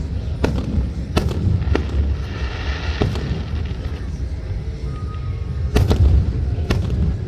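Aerial fireworks bursting: about six sharp bangs over a continuous low rumble, the loudest about six seconds in.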